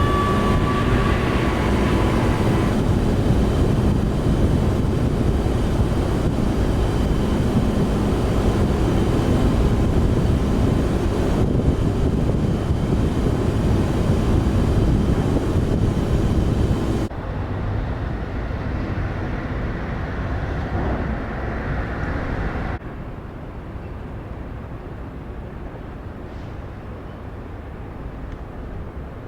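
Steady rumble of a car ferry under way, its engines and rushing air and water, in shots cut together; the noise drops abruptly to a quieter, duller level twice, about two-thirds of the way through and again a few seconds later.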